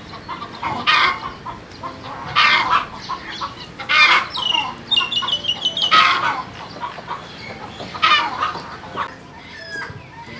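Chickens clucking and calling, with loud calls every second or two and a quick run of short pitched notes about halfway through.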